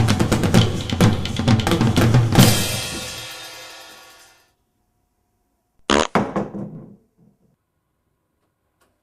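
Drum-kit music with bass drum, snare and hi-hat, ending on a cymbal crash about two and a half seconds in that rings out over about two seconds. After a silence, a short sharp sound comes about six seconds in, followed by a few softer ones.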